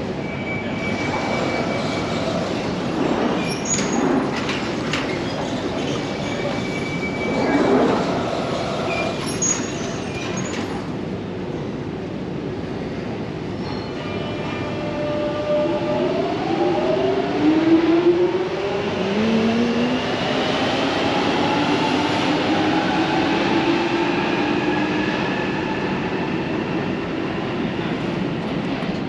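London Underground Jubilee line train in the station. Rail noise with a few knocks and short tones is followed, about halfway through, by the train pulling away, its traction motors giving a whine of several tones that climbs steadily in pitch as it gathers speed.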